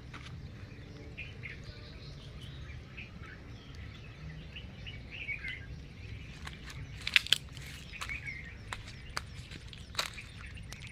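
Birds chirping on and off over a low, steady outdoor rumble. A few sharp clicks or taps come in the second half, the loudest of them about seven seconds in.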